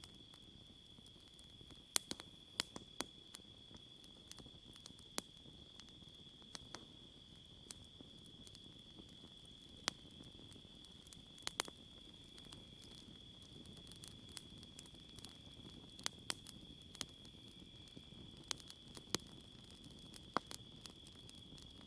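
Wood campfire crackling, with scattered sharp pops at irregular intervals over a soft hiss. A steady high-pitched insect chorus drones behind it.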